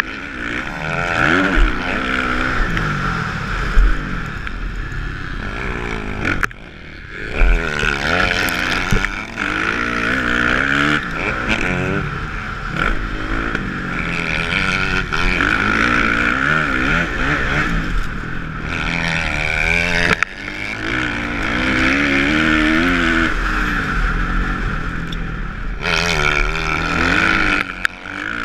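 Kawasaki motocross bike's engine revving hard through a lap, its pitch climbing and falling again and again as the throttle opens and closes, with short drops where the throttle is shut. Two loud thumps come within the first eight seconds.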